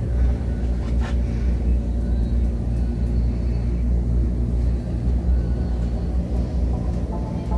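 Steady low machinery rumble and hum, with a faint click about a second in.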